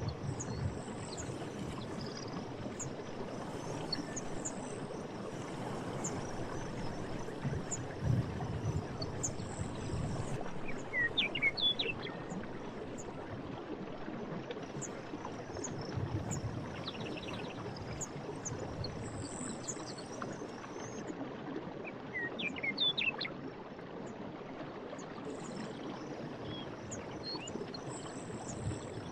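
Forest stream running steadily, with low gurgles now and then, and birds chirping in short quick phrases twice, about a third of the way in and again near two thirds.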